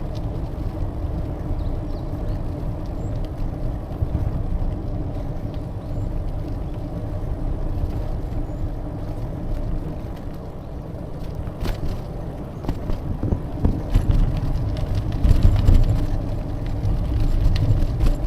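Steady low rumble of wind and road noise from riding a bicycle, with scattered clicks and knocks that grow more frequent and uneven near the end.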